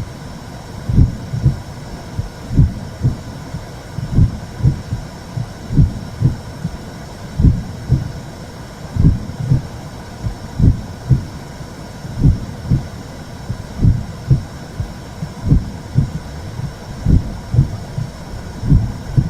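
Womb sound: a slow heartbeat, each beat a pair of low thumps, repeating evenly about every one and a half seconds over a steady low whooshing noise.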